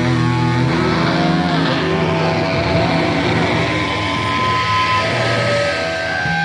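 Loud live rock band playing a dense, noisy distorted-guitar passage, with long held tones sounding over the wash.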